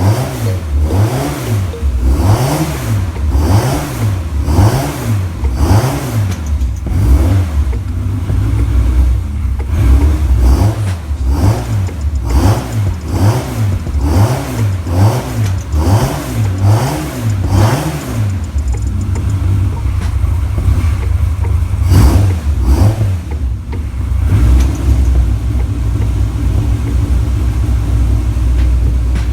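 Caterham Super Seven R500R engine revved in quick repeated throttle blips, about one a second, then settling to steadier running with one more sharp blip.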